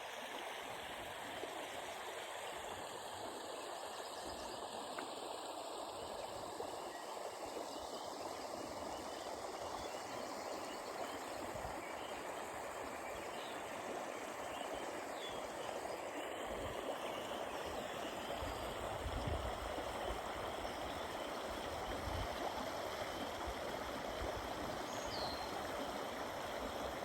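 Steady rushing of running water, like a stream flowing over rocks, as an even, unbroken wash of sound.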